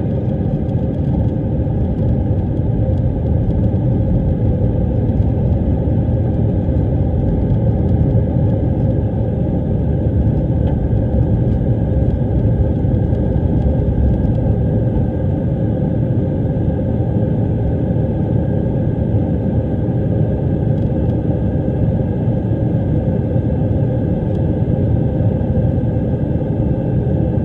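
Steady cabin rumble of an Airbus A319's jet engines and airflow, heard from inside the cabin during the climb after takeoff.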